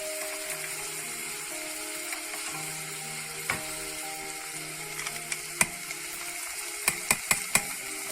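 Onion, carrots and green peas sizzling as they sauté in butter in a pan. A utensil clicks against the pan a few times while they are stirred, with a quick run of sharp knocks near the end.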